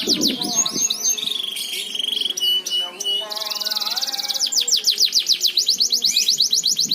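Domestic canary singing a fast, continuous song: rapid series of sweeping notes, a buzzy trill about a second in, a few short whistled notes, then quick repeated sweeping phrases again from about four seconds in.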